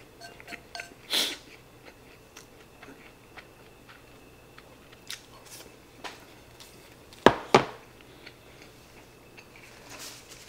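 Close-up chewing of food, with small clicks of chopsticks against a ceramic bowl. About seven seconds in, two sharp knocks a fraction of a second apart as the ceramic rice bowl is set down on the counter.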